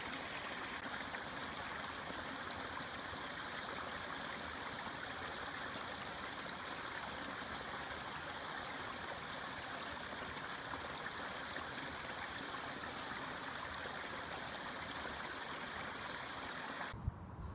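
Forest river flowing steadily, a continuous rush of water that cuts off abruptly near the end.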